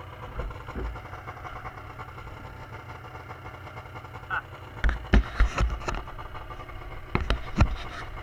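Arctic Cat M7 snowmobile's two-stroke engine idling steadily while it sits stuck, with a run of sharp knocks and thumps starting about five seconds in.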